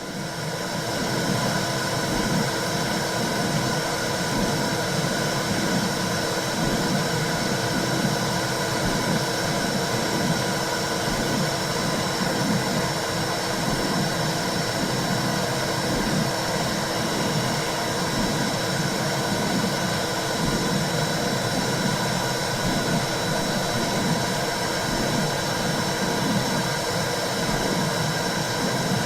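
Womb sound for soothing a newborn: a steady whooshing noise with a low, even pulse about once a second. It swells in from silence at the start.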